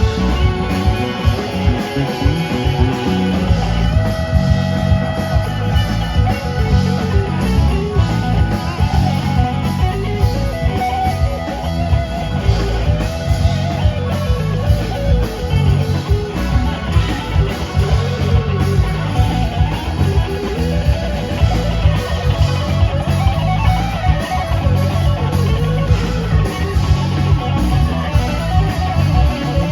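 Live band playing an instrumental passage, guitar to the fore over bass and a steady drum beat.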